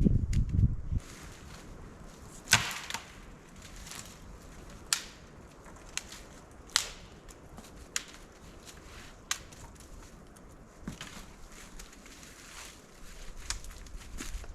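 A low rumble that stops about a second in, then sharp knocks on wood, about six, spaced irregularly one to two seconds apart, the first with a short ring after it.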